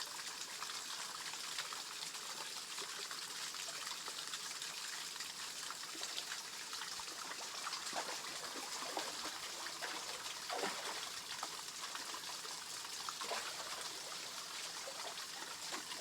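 Water trickling and running steadily over a small waterfall in a rice-field channel.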